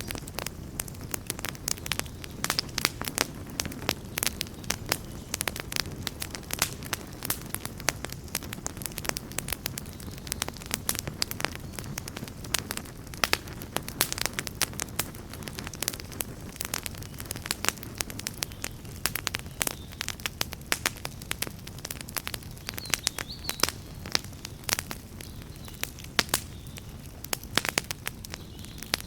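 Campfire burning, with frequent sharp crackles and pops over a low, steady rush of flame.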